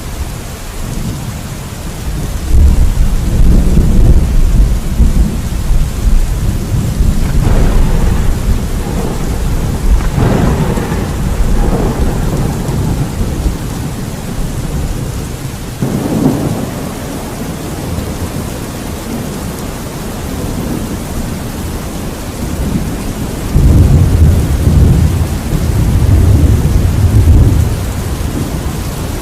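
Steady rain with rolling thunder. A long low rumble swells about three seconds in and again near the end, and three sharper thunder cracks break through in between.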